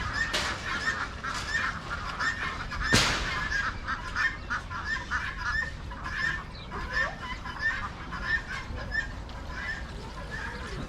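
A flock of farm poultry calling continuously, many short calls overlapping one another, with one sharp knock about three seconds in.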